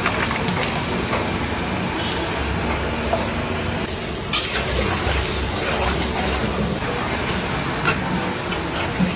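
Raw chicken pieces sizzling as they go into a large kadai of hot oil, with a long flat spatula stirring and scraping through them. The frying runs steadily, with a few short scrapes of the spatula.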